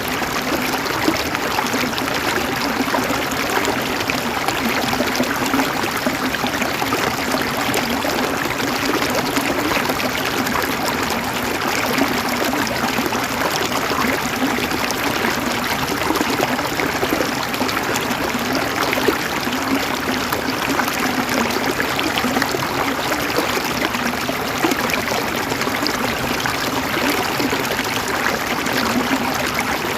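A river flowing over rocks, a steady rush of water with fine gurgling and splashing detail.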